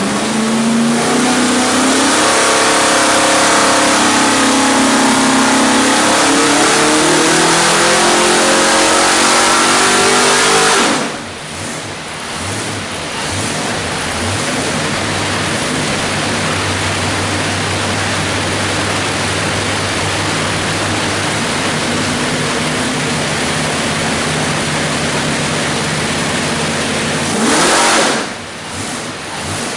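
408 cubic-inch small-block Ford stroker V8 on an engine dyno, its revs climbing steadily for about eleven seconds under a pull before the throttle is shut and it drops suddenly to idle. It idles steadily, then is revved once briefly near the end.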